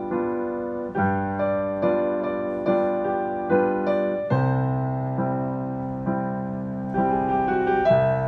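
Piano playing a slow, gentle melody over chords, a new note or chord struck about every second and left to ring. About halfway through a deeper chord enters and sustains under the melody.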